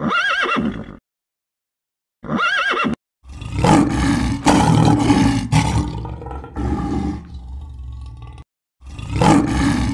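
Two short horse whinnies, then a lion's long, deep roar lasting about five seconds, followed by another short call near the end.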